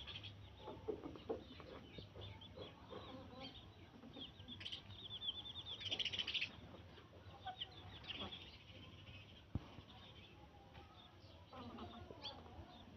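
Birds calling: many short, high chirps, busiest around the middle, mixed with lower clucking calls like those of farmyard fowl.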